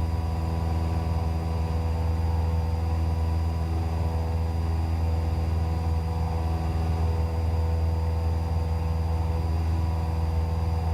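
Cessna 172's piston engine and propeller droning steadily in flight at constant power: an even low hum with a faint thin high whine above it.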